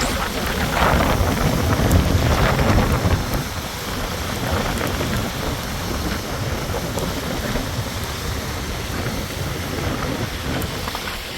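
Wind in a snowstorm buffeting the microphone: a steady, rumbling rush with hiss, a little stronger in the first few seconds.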